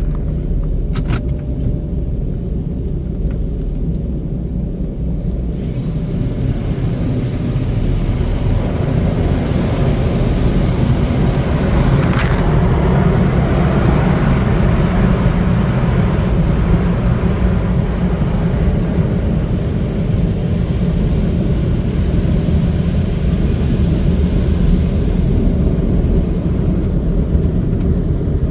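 In-bay automatic car wash machinery running, heard from inside the car: a steady low rumble, joined about six seconds in by a loud rushing hiss of spray or air that builds and then holds steady.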